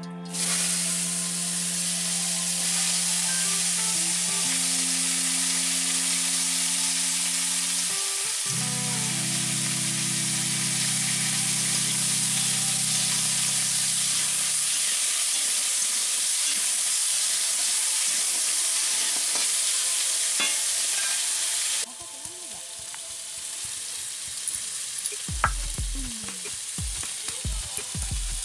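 Vegetable slices sizzling loudly in hot oil in an aluminium wok, stirred with a metal ladle. The sizzle cuts off about 22 seconds in, and near the end come a few sharp knocks of a blade chopping onion on a stone slab.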